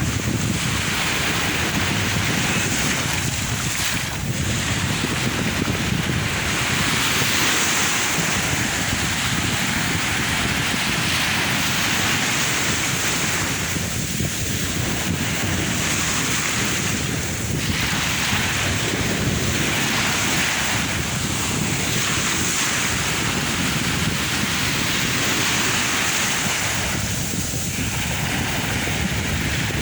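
Sea waves breaking and washing in a continuous surf that swells and eases every few seconds, with wind rumbling on the microphone.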